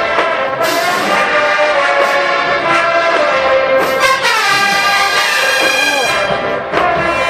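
Marching band brass section playing loud held chords, with a downward smear in the horns about four seconds in.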